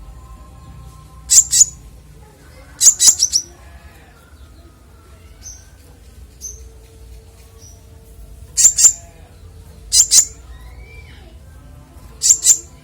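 A konin songbird calling in loud, very short, high, sharp chirps, given in quick clusters of two to four notes every few seconds. Softer short whistled notes come in between.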